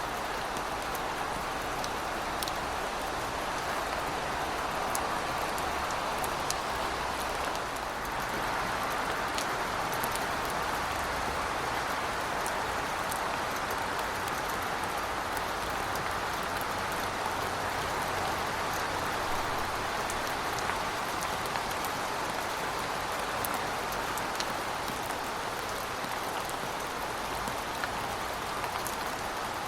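Heavy rain falling steadily, a dense even hiss with scattered sharper drops spattering on hard surfaces, over a faint low rumble.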